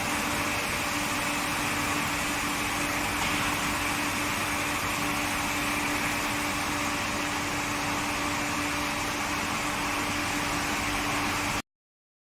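Steady industrial machinery noise: a broad hiss with a constant hum underneath, which cuts off abruptly near the end.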